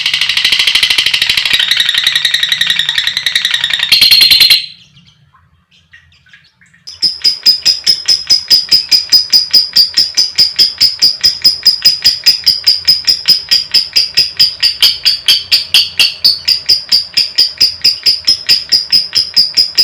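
Lovebird ngekek: a long, rapid, shrill chattering trill. It breaks off about four and a half seconds in, leaving two seconds of near silence, then resumes as a fast, even run of high chirps, about six or seven a second.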